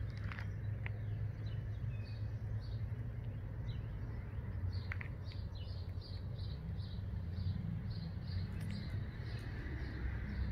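A songbird calling: a few short chirps, then a quick even series of short high notes about three a second in the second half, over a steady low rumble.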